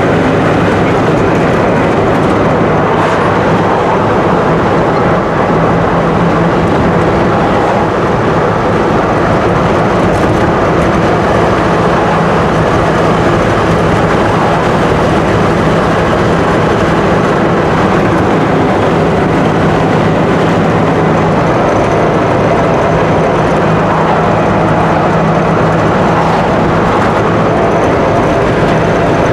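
Pickup truck driving on the road: a steady mix of engine and road noise with a low hum.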